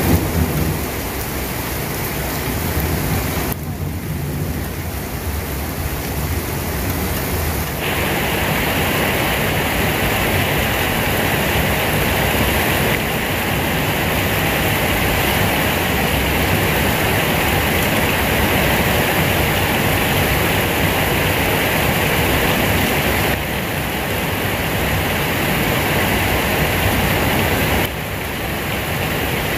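Steady rain falling, an even hiss with no let-up. Its tone changes abruptly a few times, near 4, 8, 23 and 28 seconds in.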